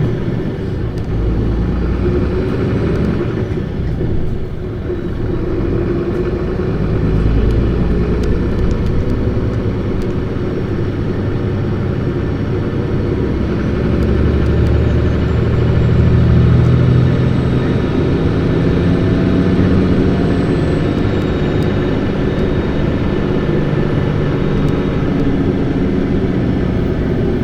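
Isuzu Erga long-body city bus's diesel engine heard from inside the bus, revved hard while driving. The pitch climbs and drops through gear changes, with a dip about four seconds in and the loudest pull around sixteen seconds in.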